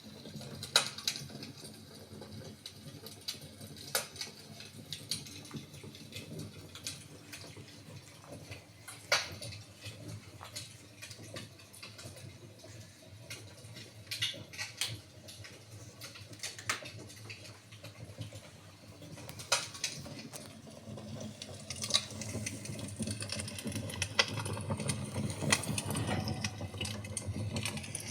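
Wood fire crackling indoors: irregular sharp pops and snaps over a low steady rumble of burning, growing louder and busier in the last several seconds.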